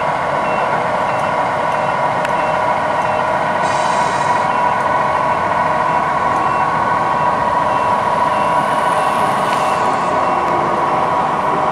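Radio-controlled model trucks running, with a steady engine-like drone and a reversing beeper sounding about twice a second, fading out over the first half. Two short hisses break in, one about four seconds in and one near the end.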